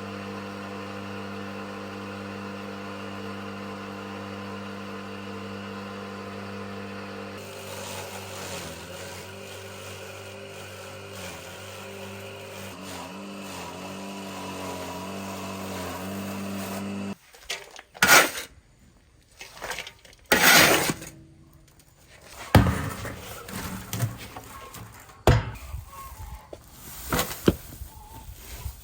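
A motor-driven feed processing machine hums steadily, its tone changing and wavering from about seven seconds in as it works. It cuts off abruptly after about seventeen seconds, followed by a run of sharp clatters and knocks.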